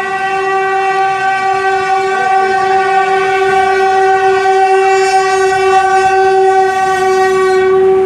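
Indian Railways locomotive horn sounding one long, loud, steady blast of about eight seconds, cutting off at the end.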